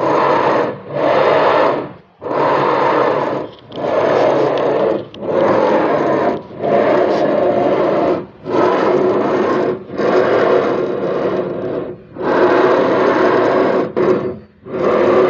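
Audi A6 electric power steering box making a rough cracking, grinding noise each time the steering is turned, in about ten bursts of a second or two each. The steering box turns out to have taken in water, its bearings and motor armature and coils rusted.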